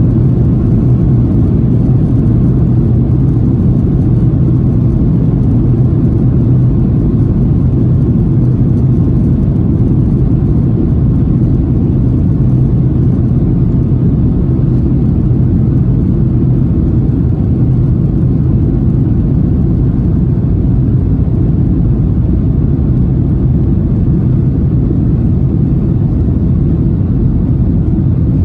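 Boeing 757-300 cabin noise heard from a window seat: a loud, steady low rumble of jet engines and airflow that holds even throughout.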